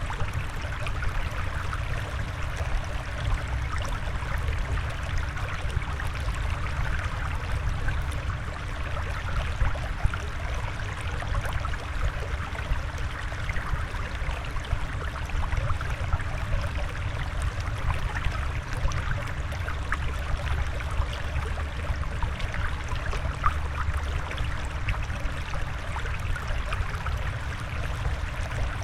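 Steady flowing water: a continuous trickling stream sound with a low rumble underneath.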